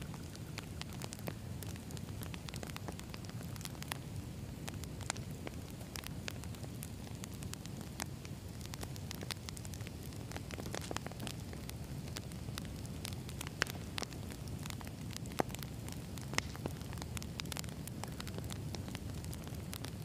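Wood campfire burning: scattered sharp crackles and pops over a steady low rumble of the flames, with a few louder pops in the second half.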